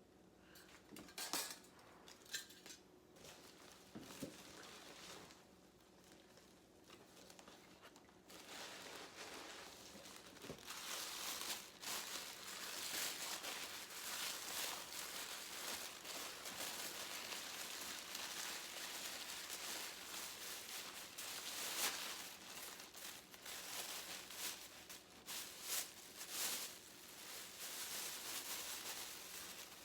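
Packaging crinkling and rustling as a gift is unwrapped by hand. A few light clicks and knocks come first, then about a third of the way in comes a steady stretch of dense crinkling.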